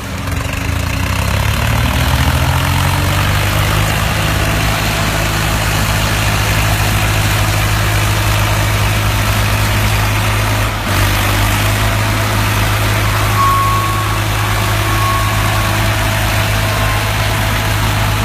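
Tractor diesel engine running hard and steady, its pitch climbing over the first couple of seconds and then holding, with a brief dip about eleven seconds in.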